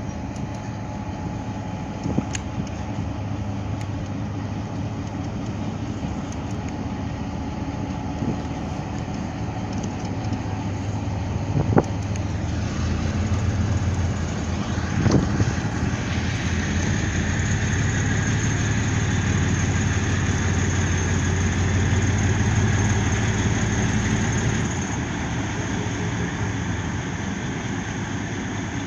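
Low, steady drone of a vessel's diesel engine during docking, growing louder about halfway through and easing off near the end, with a few sharp knocks.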